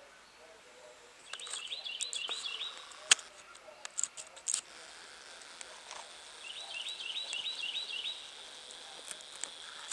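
A songbird singing two phrases of five or six quick repeated notes, a few seconds apart. Between the phrases come a few sharp clicks, one of them loud.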